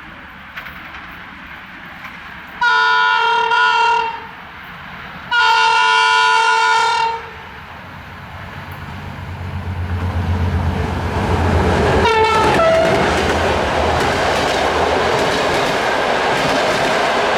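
Diesel-electric locomotive LDE GM 980 sounding two long chord horn blasts, then approaching with its engine rumbling. A brief horn note drops in pitch as it passes about twelve seconds in, followed by the steady clatter of the train's wheels over jointed rails.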